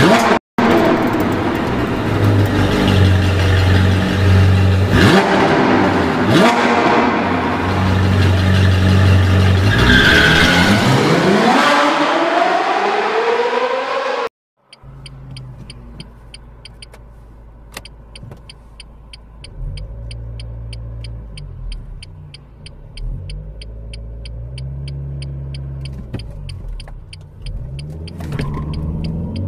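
A loud opening passage with a deep, blockwise-repeating tone and a sweeping rising and falling glide cuts off abruptly about halfway. It is followed by the Renault Megane 2's 1.5 dCi diesel idling as heard from inside the car, with a steady relay-like ticking about two and a half times a second.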